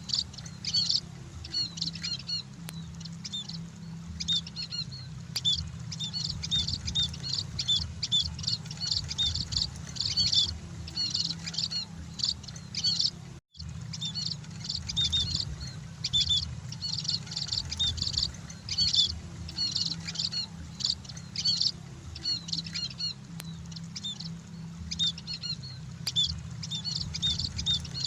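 A flock of munias (emprit) chirping continuously in dense, rapid high-pitched chatter over a steady low hum, broken by a very brief cut in the sound about halfway through.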